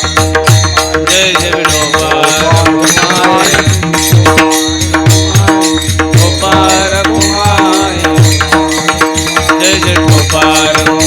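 Devotional bhajan music: a pakhawaj drum playing a fast, steady rhythm with repeated deep bass strokes, over a steady held tone and a wavering melody.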